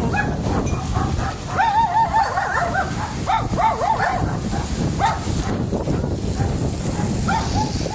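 Runs of short, high-pitched yelping and whimpering cries, several a second, over a loud, steady rushing noise.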